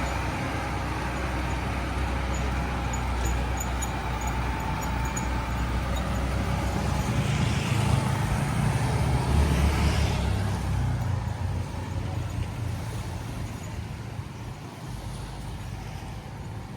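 A motor vehicle passing on a road: a low engine and tyre rumble that grows, is loudest about eight to ten seconds in, then fades away.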